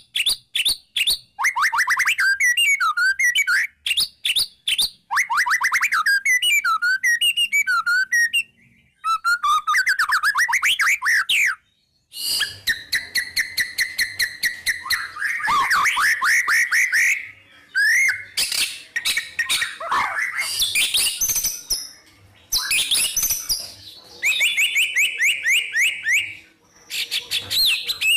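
Songbird singing: fast, repeated chirps and trilled phrases with short pauses between bursts, changing to a different, busier pattern about twelve seconds in.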